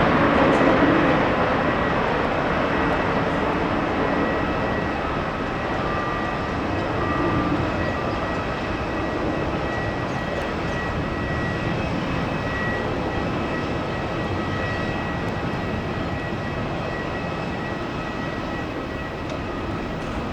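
Boeing 777 jet engines after landing, a steady roar that fades slowly, with a faint high whine held over it.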